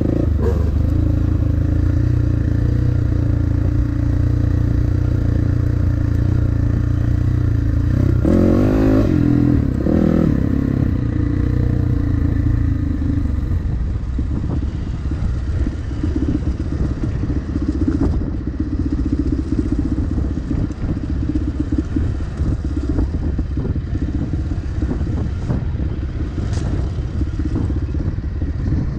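Dirt bike engine running at steady throttle, with a quick rise and fall in revs about eight to ten seconds in. After about thirteen seconds the steady engine note gives way to a rougher, noisier ride sound.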